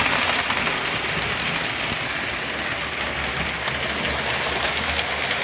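Model electric train running steadily around the layout: a continuous rumble and rattle of wheels on the track with the locomotive's motor hum.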